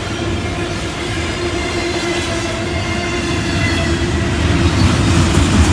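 Freight train rolling past: a continuous low rumble of railcars with a steady tone over it, growing louder toward the end.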